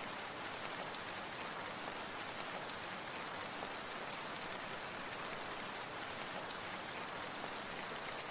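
Steady rain falling: an even hiss of many small drops.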